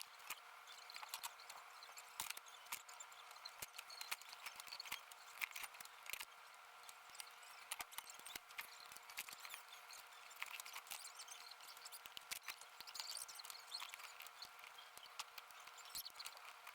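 Faint, irregular clicks and light taps of small parts and tools being handled at a workbench, over a faint steady hum.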